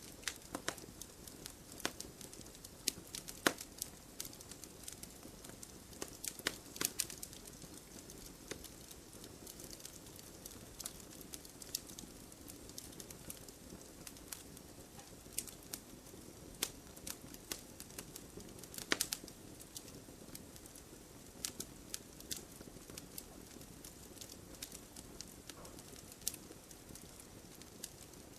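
Wood fire crackling in a fireplace: irregular sharp pops and snaps over a low, steady hiss of burning.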